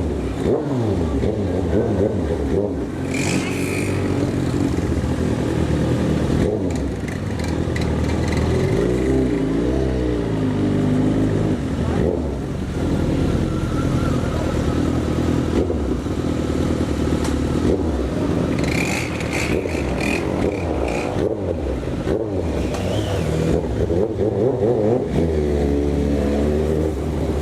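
Motorcycle engine running and revving, its pitch rising and falling again and again.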